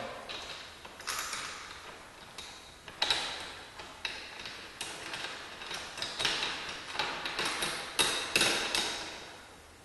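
Metal hardware clinking and scraping as 3/8-inch bolts and nuts are threaded by hand through the cast aluminium cones of new garage-door torsion springs into the centre bearing plate: a run of irregular sharp clicks, the sharpest about three seconds in and again near eight seconds.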